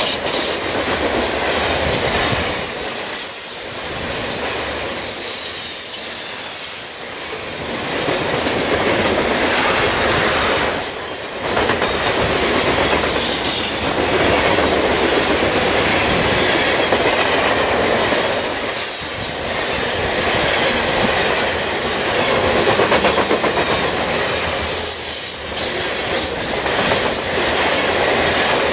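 Freight train of covered hopper cars rolling past, steel wheels running on the rails with a high-pitched wheel squeal that comes and goes.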